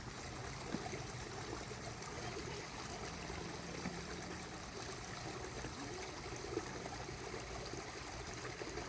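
Small rocky creek trickling and flowing over stones: a steady, even sound of running water.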